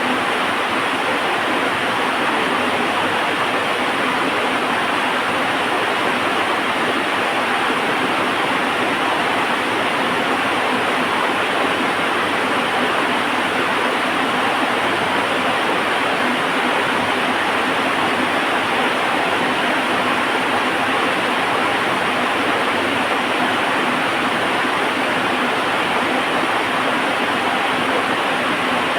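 Heavy rain falling steadily, an even wash of noise with no thunder or fire crackle standing out.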